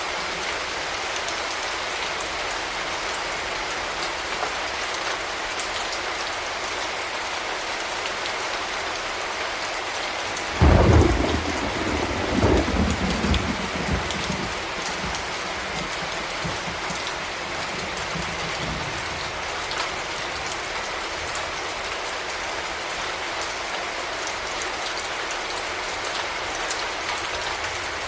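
Steady rain falling, with a loud clap of thunder about ten seconds in that rolls on and fades away over several seconds.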